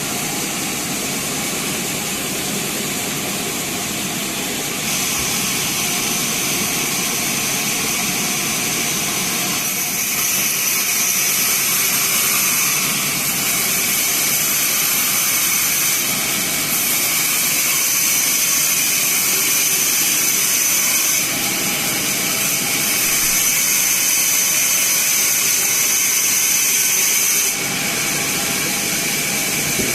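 Sawmill band saw running and cutting a teak log: a steady hiss with a high whine, growing louder and easing off several times as the cut goes on.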